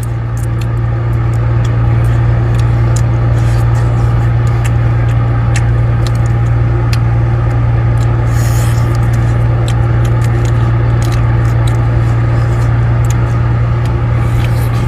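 Boat's engine running with a steady low drone, with small clicks throughout and a brief hiss about halfway through.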